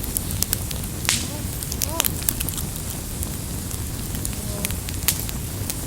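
Campfire wood burning and crackling, with sharp pops and snaps scattered irregularly over the steady low sound of the flames.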